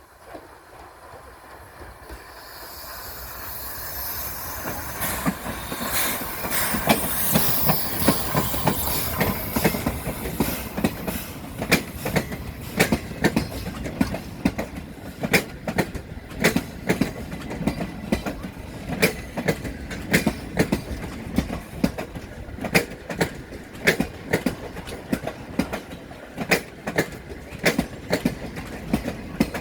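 Railway train running on jointed track: a rush of noise builds over the first several seconds, then the wheels click over the rail joints in a steady, repeating clickety-clack.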